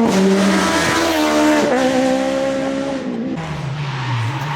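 Rally car engine running hard on a stage, its pitch jumping up and down with throttle and gear changes, then dropping to a lower, steadier note about three seconds in.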